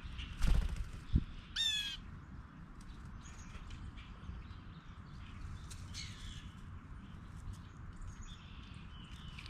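A dull knock, then a short, harsh, rolling bird call a little later, with faint chirps afterwards.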